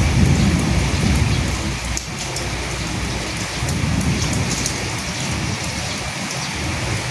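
Steady rain falling, with single drops ticking close by and low rumbles swelling near the start and again about four seconds in.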